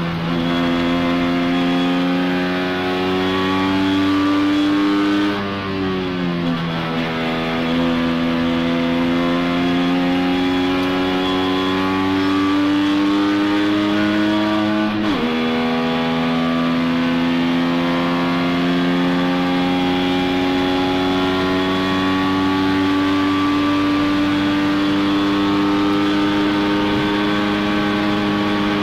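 Tuned 1963 Saab Sport's three-cylinder two-stroke engine pulling hard, heard from inside the cabin. The revs climb steadily, sag briefly about five seconds in, climb again, then drop sharply at a gear change about fifteen seconds in before rising slowly once more.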